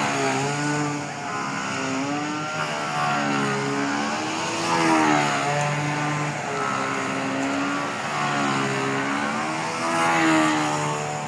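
The Fora .68 nitro engine of a control-line stunt model aeroplane running at high revs. Its pitch rises and falls every two to three seconds as the model circles and manoeuvres on its lines.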